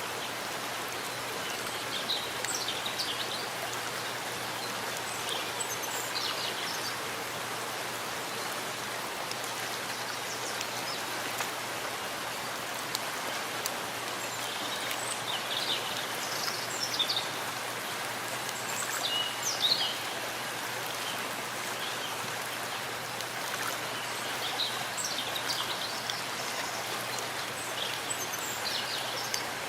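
Steady rain falling in a forest, an even hiss, with brief brighter high sounds standing out now and then, most of them around the middle.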